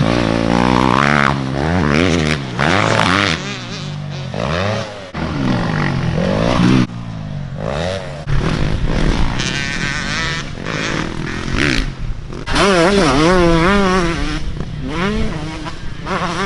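Dirt bike engines revving up and down repeatedly as the bikes ride the motocross track.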